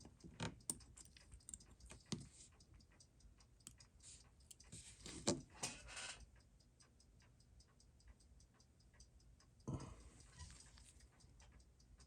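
Faint, steady fast ticking of a mechanical timepiece, with a few small clicks and scrapes of tools and parts being handled on the bench.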